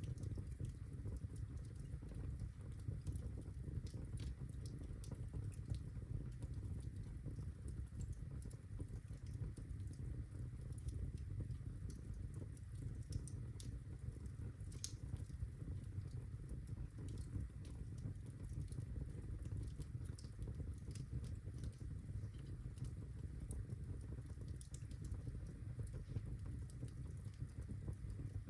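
Birchwood fire burning in a fireplace: a steady low rumble of the flames with scattered sharp crackles and pops.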